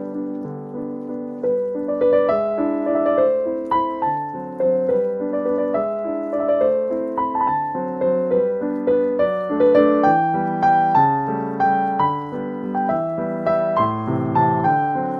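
Background piano music: a gentle melody of single notes over held chords, at an even, unhurried pace.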